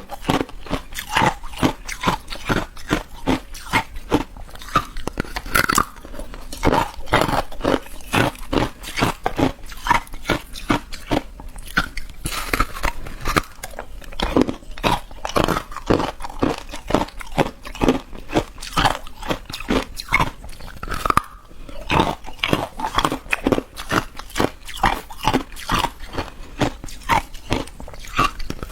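Close-up biting and chewing of ice, a quick, steady run of loud crunches.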